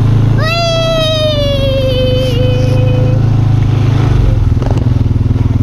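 Four-wheeler engine running steadily. Over it, a child's long high-pitched call lasts about three seconds and sinks slowly in pitch.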